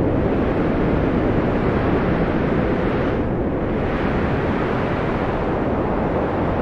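Wind blowing steadily as a deep, even rush, easing slightly about three seconds in.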